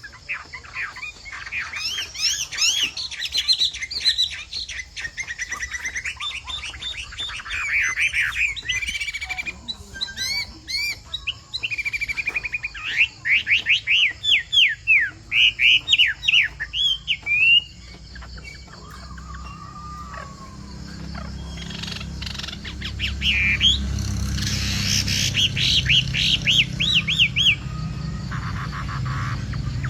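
Chinese hwamei singing: loud, varied whistled phrases and fast runs of repeated rising notes, with short breaks between phrases. A low rumble rises underneath in the second half.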